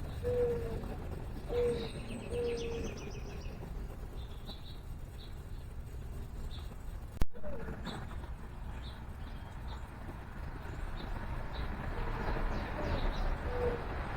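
Dove cooing in a series of low coos, three near the start and more near the end, with small birds chirping and a short rapid trill about two seconds in. A single sharp click about seven seconds in.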